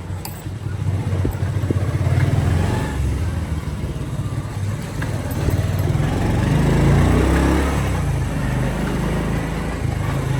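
Motorcycle engine running while riding along the street, a little louder about two-thirds of the way through.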